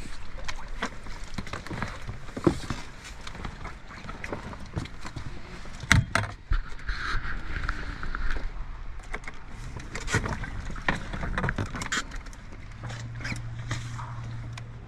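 Irregular knocks and clatter of people moving about on a boat, with a steady low hum setting in about two seconds before the end.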